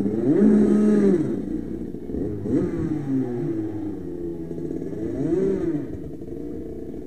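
Racing engines passing one after another, about three passes, each rising and then falling in pitch as it goes by, the first the loudest.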